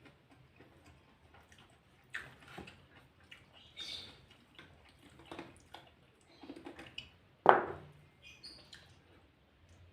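Close-up eating sounds: irregular chewing and crunching of food, with one louder crunch about seven and a half seconds in.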